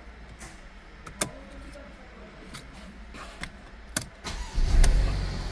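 A few light clicks, then about four and a half seconds in a Mercedes-Benz M274 four-cylinder petrol engine starts and settles into running with a low, steady rumble.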